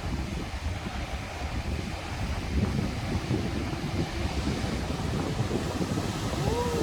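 High surf breaking on the beach, with wind buffeting the microphone in a steady low rumble.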